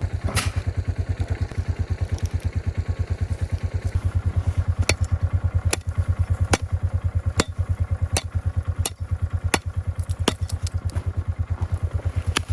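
Quad (ATV) engine idling with a steady, fast low pulse. From about five seconds in, a run of sharp knocks comes roughly once a second.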